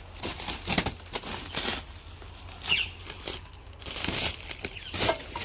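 Packaging being handled: irregular crinkling, rustling and tearing in short bursts.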